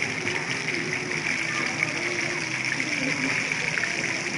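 Chicken lollipops deep-frying in hot oil: a steady sizzle with fine crackling.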